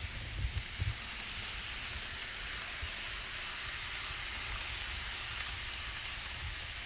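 Steady hissing noise like rain, with a few low knocks in the first second.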